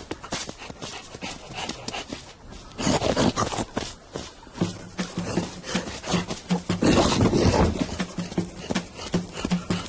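Cartoon sound effects: animal vocal noises with a quick run of clicks and knocks, louder outbursts about three and seven seconds in, and low steady notes joining a little before halfway.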